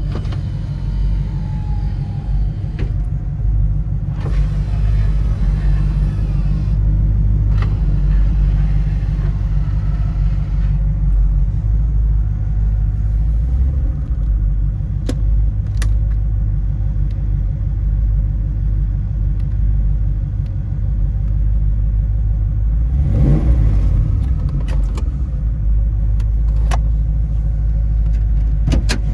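Ram Jet 350 fuel-injected small-block V8 running through headers and dual exhaust, with a steady low rumble and a few sharp clicks.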